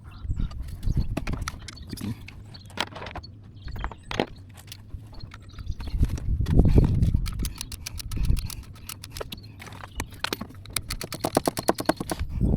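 Hand tools and engine-bay parts being worked on a car: scattered clicks and knocks, a louder, longer rustling noise about six seconds in, and a fast, even run of clicks near the end.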